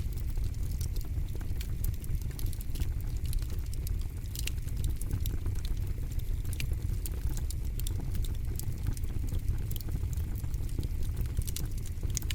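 Campfire burning, with frequent sharp, irregular crackles and pops of the wood over a steady low rumble of the flames.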